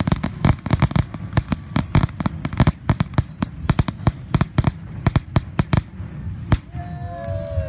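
Aerial fireworks shells going off in rapid succession: a dense run of sharp bangs and crackles, about five a second, that stops about six and a half seconds in.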